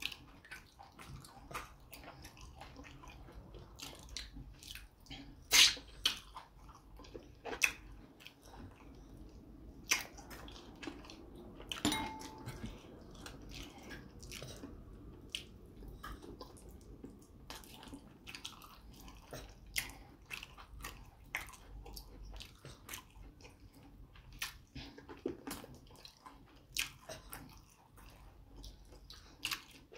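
Close-miked mouth sounds of eating fufu with slimy ogbono soup: wet chewing and irregular lip smacks and clicks, the sharpest about five and a half seconds in.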